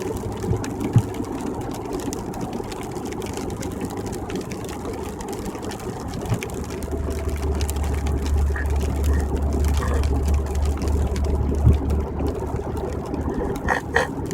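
Road noise inside a car driving on a wet highway: steady tyre hiss and engine and road drone, with a deeper rumble for several seconds from about halfway through and a few light knocks.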